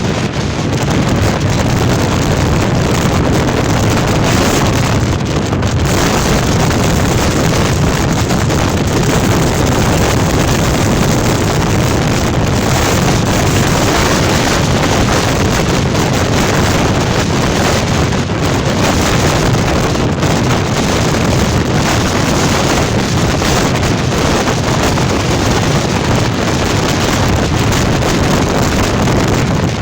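Gale-force storm wind blowing hard and without letup, buffeting the microphone as a loud, steady, low rumble.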